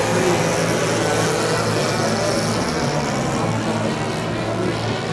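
Gas engine of a giant-scale RC model airplane running steadily, propeller included, slightly quieter near the end.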